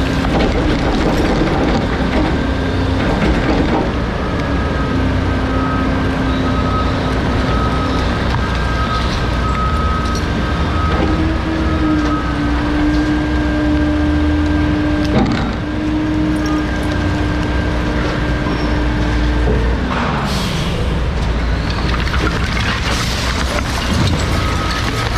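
Refuse truck's compactor running with a steady mechanical rumble and a constant hum, which steps up in pitch about eleven seconds in and slides down near twenty seconds. Short hisses of air follow, one as the hum drops and another near the end.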